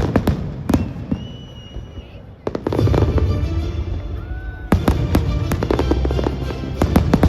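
Fireworks going off in quick cracks and bangs, with music playing underneath; a deep rumble swells in about two and a half seconds in.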